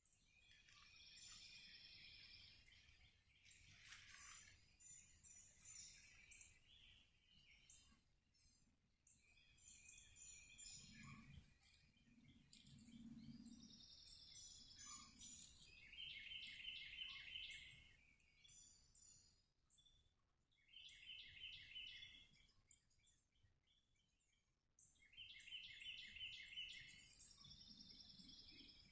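Faint birdsong: several birds singing, with a rapid trilled phrase repeated three times in the second half.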